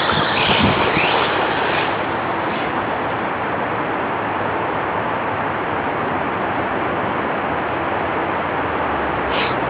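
Electric RC short-course truck driving, its brushless motor whining up and down in short bursts during the first two seconds and once more near the end, over a steady rushing noise.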